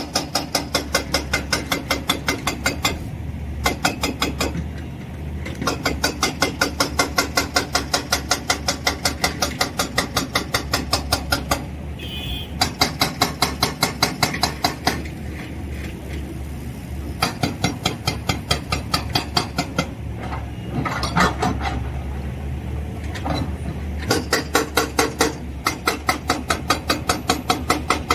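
JCB digger working rock: its diesel engine running with long runs of rapid, regular knocks, about five a second, that stop and start again several times.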